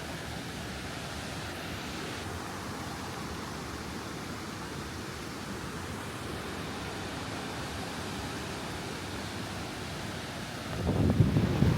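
Steady rushing of a river cascade, an even hiss of falling water. About eleven seconds in, wind starts buffeting the microphone with louder low gusts.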